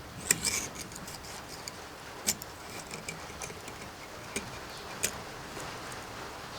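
Scattered sharp clicks and light taps of hand tools and metal engine parts being handled on a workbench. The louder clicks come about a third of a second in, just after two seconds and about five seconds in.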